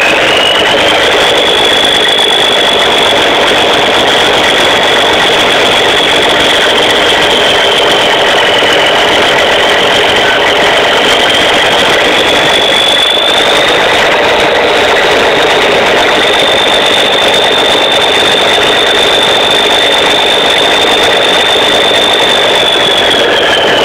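Cummins N14 inline-six diesel in a Ford L9000 truck running, with a loud high turbocharger whistle over the engine noise. The whistle climbs to a high steady pitch just at the start, sags slightly and recovers partway through, then drops in pitch near the end as the turbo slows.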